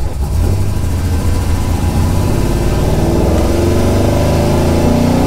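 1968 Dodge Charger's 502 cubic-inch Hemi V8 running under throttle as the car pulls away, its pitch rising steadily through the second half as it accelerates.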